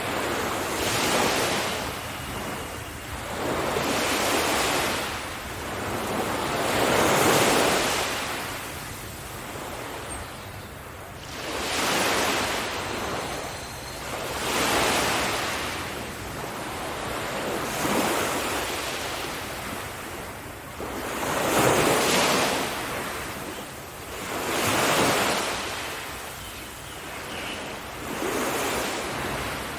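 Sea waves breaking on a beach, the surf swelling and fading every few seconds.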